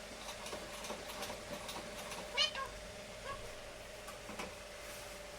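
A short, high, meow-like animal call about two and a half seconds in, with fainter short calls and light ticks around it, over a steady hum.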